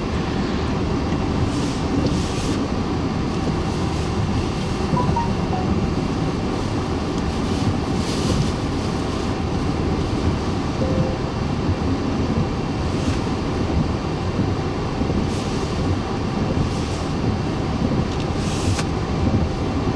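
Hurricane-force eyewall wind blowing as a steady, loud, low rumble, with sharper hissing gusts a few times.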